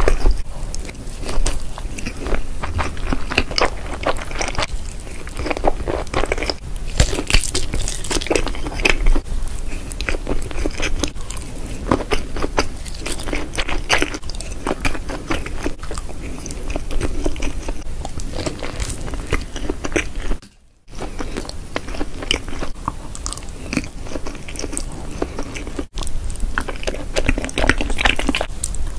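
Close-miked ASMR eating: a person biting into food and chewing, with crunchy bites and wet mouth sounds in quick irregular clicks. The sound briefly drops out about two-thirds of the way through.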